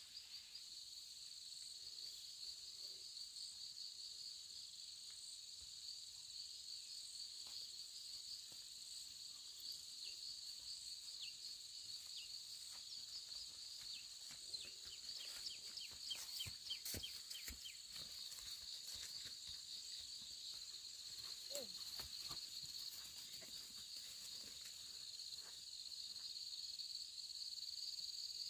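A faint, steady chorus of insects, crickets or similar, chirring with a fine rapid pulse. A few scattered clicks and short chirps come through in the middle.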